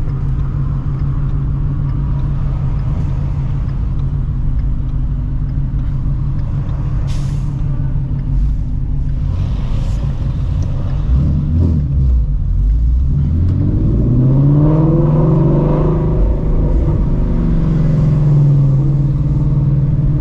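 Shelby GT350's 5.2-litre flat-plane-crank V8, breathing through long-tube headers and a straight-pipe exhaust, rumbling at low speed in traffic. About two-thirds of the way in, the engine note rises as the car accelerates, then holds a steadier, higher tone. Two brief hisses sound near the middle.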